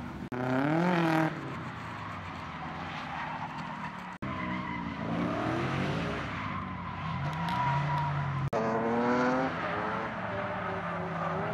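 Drifting cars' engines revving up and down through slides, with tyre squeal. The sound changes abruptly about four and eight and a half seconds in, where separate runs are cut together.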